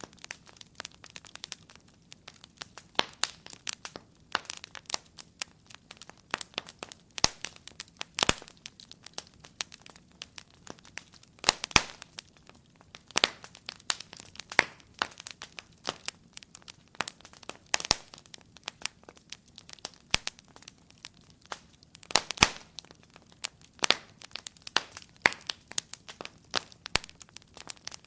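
Wood fire crackling in a fireplace: irregular sharp pops and snaps, a few louder cracks standing out, over a faint low rustle.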